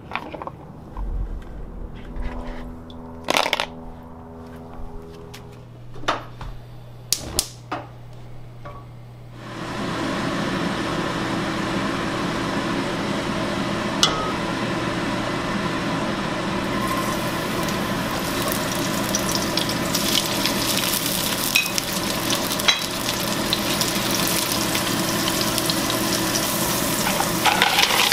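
A few clatters and knocks of shells and bowls being handled, then a steady sizzle of frying in a wok on a gas stove. The sizzle comes in about a third of the way through and grows louder and brighter about halfway, as sliced porcini and peppers go in.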